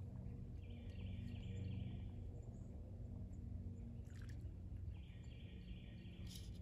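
Steady low outdoor rumble, with a small bird trilling twice, each trill about a second and a half long, the second one near the end.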